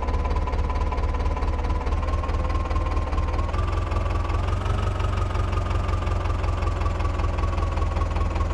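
Mahindra 275 tractor's diesel engine running steadily with a heavy, even beat, and a steady high whine over it that rises slightly around the middle and then eases back down.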